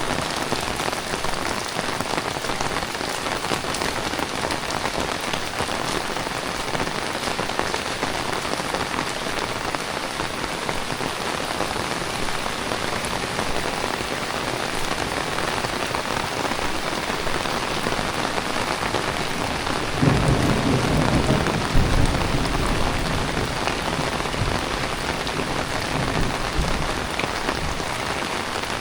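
Heavy tropical rain falling steadily on surfaces. About two-thirds of the way in, a low rumble comes in suddenly, swells for a couple of seconds, then fades away.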